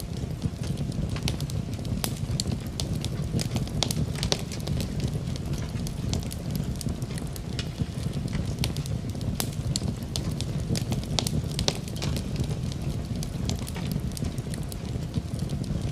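Wood fire burning in a fireplace, a steady low rumble of the flames with frequent sharp crackles and pops scattered irregularly throughout.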